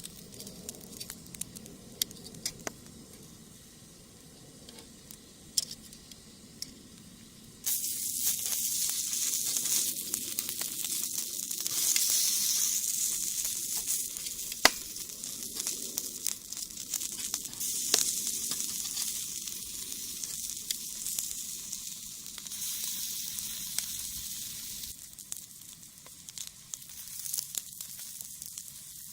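Shishamo fish sizzling on a wire grill over a wood fire in a brick rocket stove, with sharp crackles from the burning wood. Only sparse crackles at first; the loud sizzle comes in suddenly about a quarter of the way in and eases off near the end.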